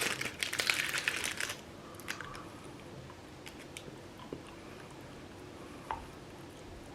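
Yankie candy bar wrapper crinkling for about the first second and a half, then faint chewing of the candy bar.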